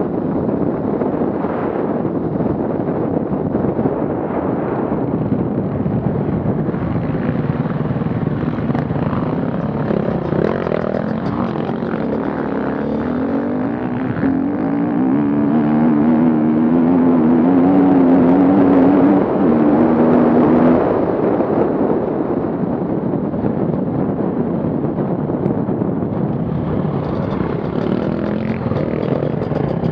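Off-road vehicle engines running under load. One engine grows louder and holds a steady pitch for several seconds about halfway through, then drops back.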